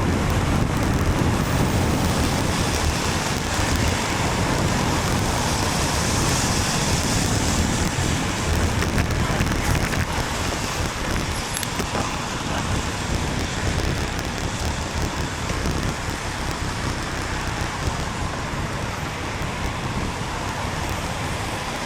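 Riding a bicycle through traffic in the rain: a steady rumble of wind on the microphone under the hiss of rain and wet road. A brighter hiss swells about five to eight seconds in.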